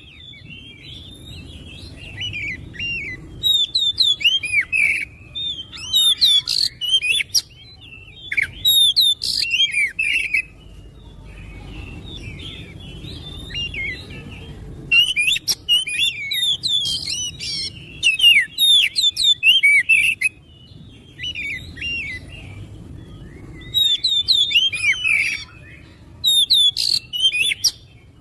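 Oriental magpie-robin (kacer) singing: quick, varied whistles and chirps delivered in loud phrases of a second or two, broken by a few quieter stretches.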